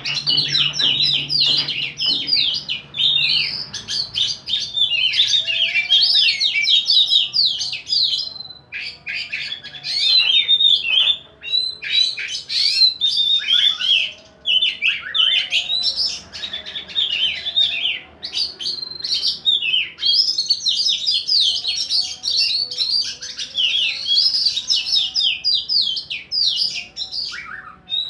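Contest songbirds singing almost without a break in rapid, varied chirps and trills, a loud, busy high-pitched song that pauses briefly only a few times.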